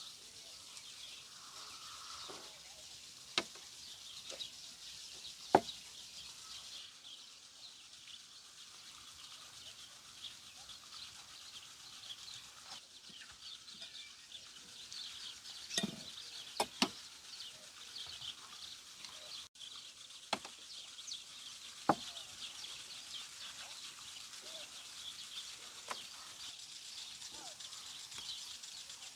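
Many small birds chirping steadily in the background, with a few sharp knocks scattered through, the loudest of them about 5 s and 22 s in.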